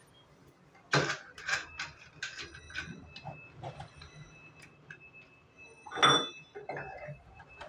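Metal gym weights knocking and clinking: a run of sharp clicks and knocks, then a louder clank about six seconds in that rings briefly.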